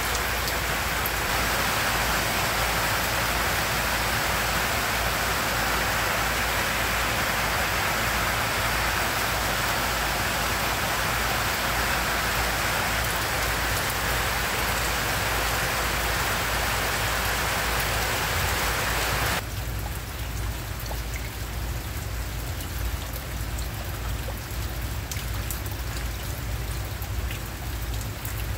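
Steady rain falling on a corrugated tin roof, an even dense hiss. About two-thirds of the way through it drops suddenly to quieter, lighter rain.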